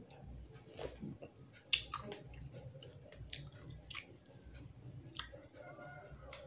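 Close mouth sounds of someone chewing a mouthful of rice and fish curry, with a few sharp wet clicks and smacks. The loudest comes a little under two seconds in.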